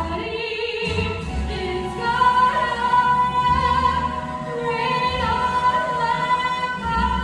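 A woman singing a show tune over instrumental accompaniment, holding long notes with vibrato.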